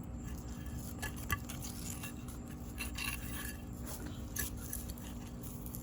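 Soil being scraped and pushed by hand around a newly planted pineapple crown: soft rubbing and scraping with a few light clicks, one sharper about a second and a half in.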